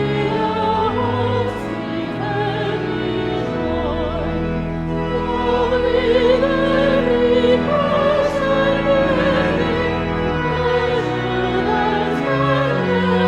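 Classical singing in a church service: a voice holds long notes with vibrato over sustained instrumental accompaniment.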